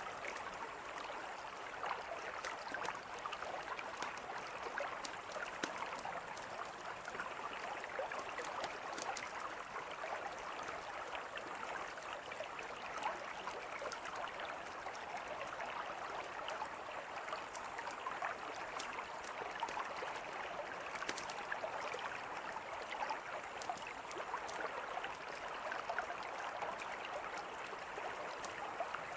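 A mountain river flowing steadily, with a campfire crackling over it in scattered, irregular sharp pops.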